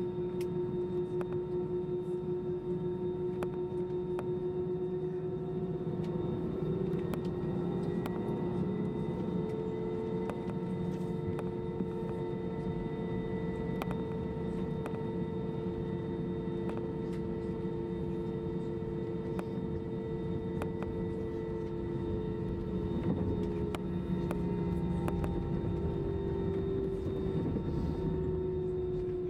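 Airbus A320 jet engines and cabin air system heard from inside the cabin during taxi: a steady drone with a layered whine. One engine tone rises a little about a quarter of the way in and settles back down near the end, as thrust is eased up and back. Faint scattered clicks and rattles sit under it.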